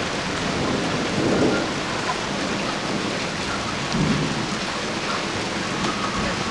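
Steady heavy rain falling in a thunderstorm, with low rumbles of thunder swelling about a second in and again near the middle.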